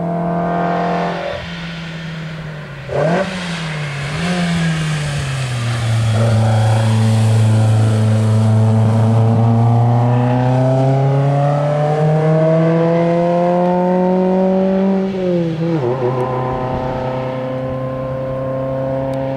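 1960 OSCA 1600 GT Zagato's twin-cam four-cylinder engine driven hard up a mountain hill climb. Its revs jump sharply and fall away about three seconds in, then climb steadily for about nine seconds as the car accelerates out of a bend. They drop suddenly at a gear change near sixteen seconds in, after which it pulls steadily.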